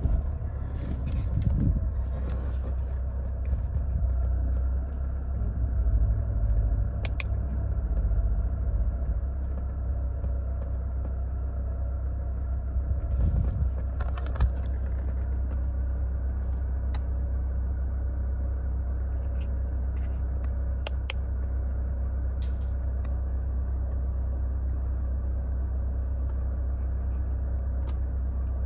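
Mercedes-Benz W211 E-Class engine idling, a steady low rumble that is a little uneven for the first several seconds, then settles. A few light clicks and taps sound over it.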